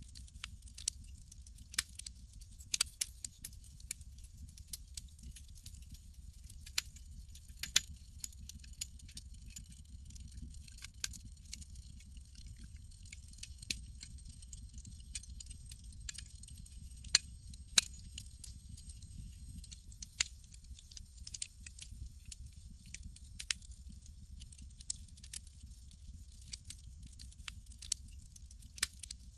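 Campfire crackling: irregular sharp pops and snaps, several clearly louder than the rest, over a low steady rumble and a soft hiss.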